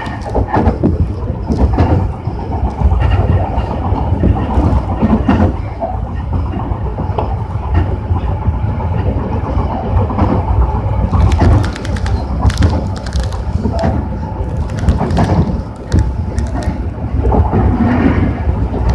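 Tobu 60000 series electric train running at speed, heard from inside the car: a steady low rumble of wheels on rail with scattered sharp clicks from the rail joints.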